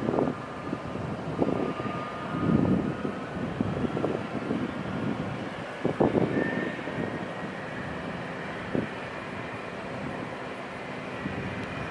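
Jet airliner engines running, a steady rumble with a faint high whine, with gusts of wind buffeting the microphone.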